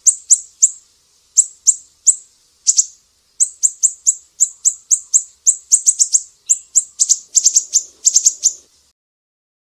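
Sumatran siri-siri singing: a long run of sharp, high, down-slurred chips, about three a second. Near the end they come faster in quick clusters, and the song stops shortly before the end.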